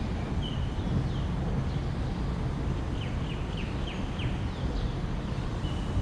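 Small birds chirping in short, high notes, with a quick run of five falling chirps about three to four seconds in, over a steady low rumble.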